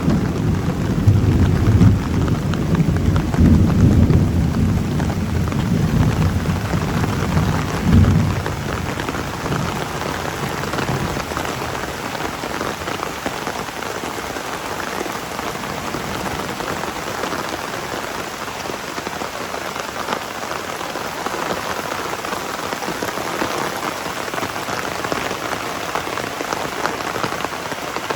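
Heavy rain falling steadily. Over the first ten seconds or so a roll of thunder rumbles in several swells and dies away, leaving only the rain.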